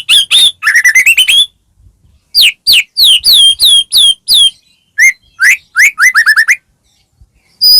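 White-rumped shama singing loud, varied phrases: a run of rising notes, then a series of clear whistles that each sweep downward, then a quickening string of short rising notes, with brief pauses between phrases.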